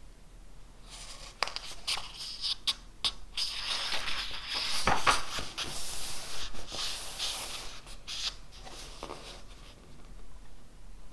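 Paper and pen sounds at a study desk: a stretch of scratching and rustling with many small taps, loudest in the middle.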